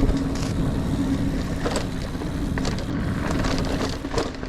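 Mountain bike rolling over rocky singletrack, with wind rumbling on the microphone and scattered sharp clicks and rattles as the bike crosses rocks. A steady low hum runs underneath.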